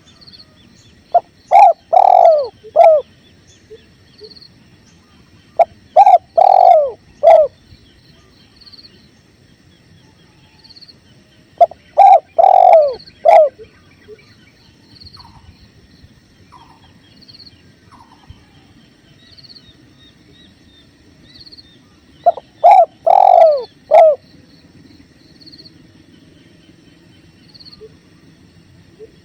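Spotted dove (tekukur) cooing four times, each a phrase of three or four low notes lasting about a second and a half. Beneath it run a steady river flow and a faint insect chirp about once a second.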